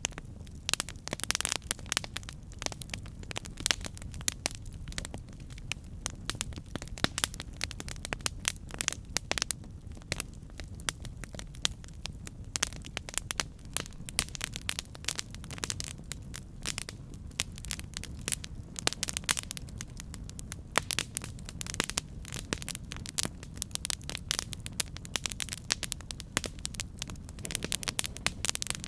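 Campfire burning, wood crackling and popping in quick irregular snaps over a steady low rumble of the flames.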